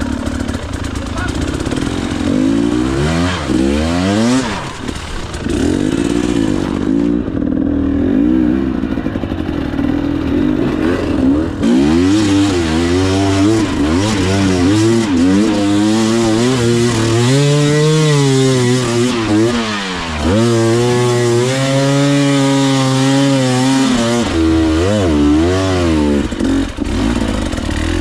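KTM EXC 300 two-stroke dirt bike engine being ridden hard, its revs rising and falling again and again under the throttle, with a brief drop about two-thirds of the way through.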